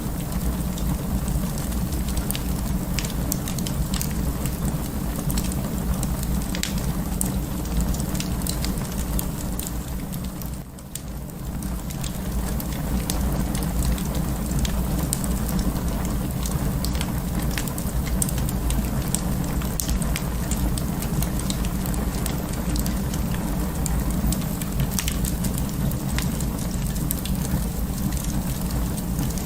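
Wood fire burning in an open fireplace: a steady low rumble of flames with frequent sharp crackles and pops. The sound dips briefly about ten seconds in.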